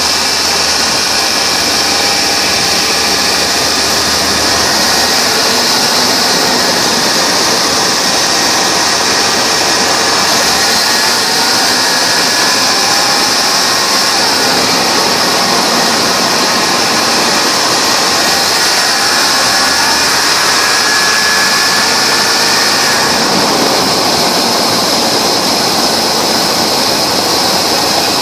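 1994 Chevy 1500 pickup engine running steadily after a start, with a strong steady hiss over the engine note.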